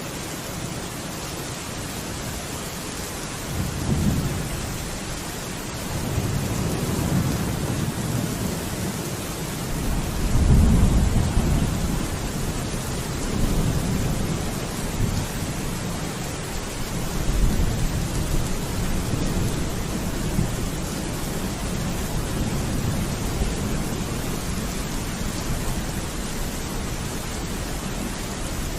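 Steady rain falling, a constant hiss, with thunder rolling several times underneath; the loudest rumble comes about a third of the way in.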